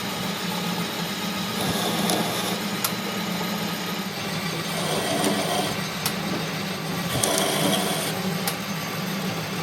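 A machine running with a steady low hum, with three short bursts of higher, noisier machine sound and a few sharp clicks.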